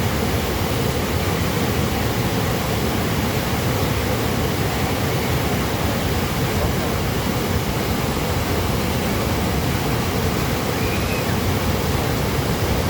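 Waterfall: falling water rushing steadily, an even, unbroken noise.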